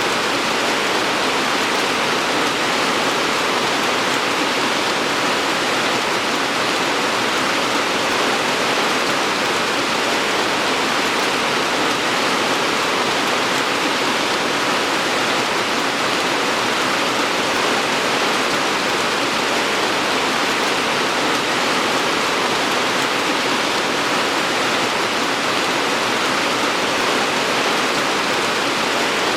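Steady rain falling, a dense, even hiss of countless drops with no single drops standing out.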